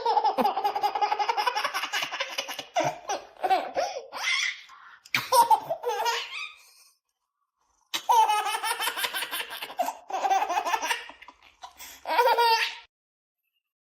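A baby laughing hard, in several long bouts of rapid, high-pitched belly laughs with short breaks between them.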